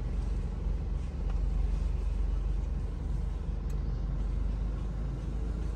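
Car engine idling, a steady low rumble heard from inside the cabin while the car stands still.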